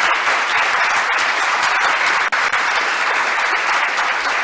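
A crowd applauding: dense, steady clapping, with a split-second break about two seconds in.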